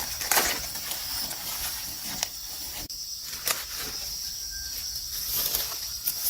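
Steady high-pitched chirring of insects such as crickets, with scattered short rustles and clicks of handling over it.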